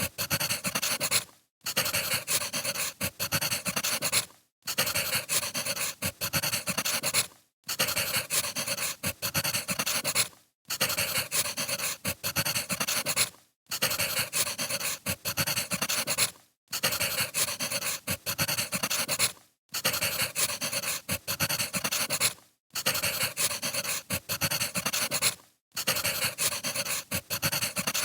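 Wood fire crackling and popping. It is a short recording looped about every three seconds, with a brief silent gap before each repeat.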